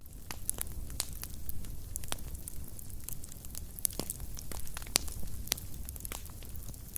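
Wood fire crackling: irregular sharp pops and snaps over a low steady rumble of the burning, with the loudest pops about four and five seconds in.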